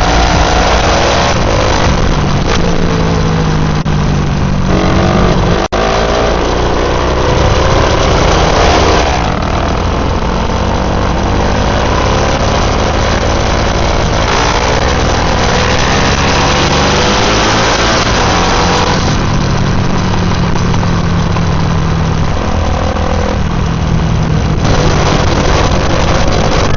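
Dual-sport motorcycle engines under way, pitch climbing and dropping back again and again as they rev up through the gears.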